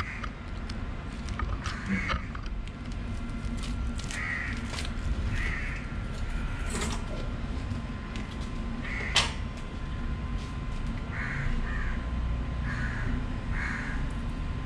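Bird calls, a dozen or so short calls spread through, over a steady low background rumble, with two sharp clicks, the louder one about nine seconds in.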